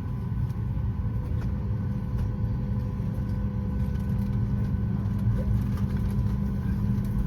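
Steady low rumble and hum inside the cabin of a Boeing 737-9 MAX airliner, with a few faint steady tones and no sudden changes.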